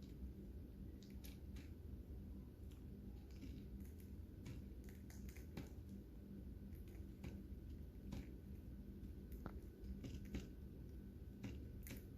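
Lovebirds eating, cracking and chewing seeds: faint, irregular crunches and clicks. A steady low hum runs underneath.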